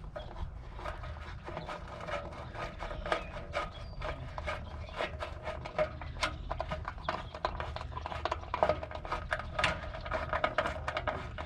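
Rapid, irregular clicking and tapping of hand tools working screws into a truck's grille, over a low steady hum.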